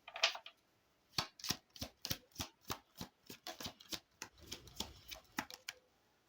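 A deck of oracle cards being shuffled by hand: a run of quick, light card clicks and flicks at about three a second. The run stops shortly before the end.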